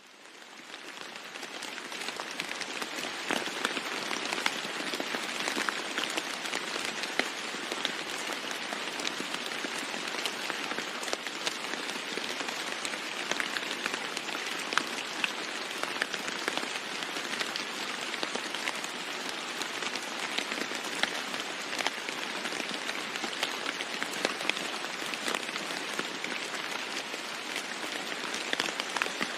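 Heavy rain falling steadily on a roof, with many separate drops ticking through the hiss. It fades in over the first couple of seconds, then holds steady.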